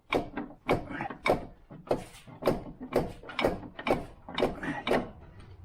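Repeated sharp metal knocks and clunks, about two a second and unevenly spaced, as the front suspension parts of a Jeep Compass are worked to fit the new CV shaft and line up the lower ball joint.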